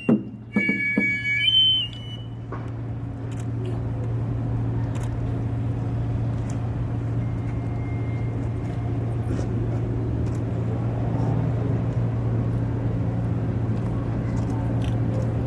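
A Minshin-gaku (Ming-Qing Chinese-style) ensemble phrase with high sustained wind tones and sharp percussion strikes ends about two seconds in, giving way to a steady low engine-like hum that continues unchanged.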